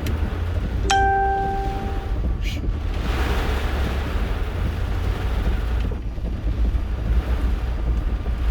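Hurricane-force eyewall wind buffeting a vehicle, a steady low rumble with a hissing gust that swells for a few seconds in the middle. A single electronic chime dings about a second in.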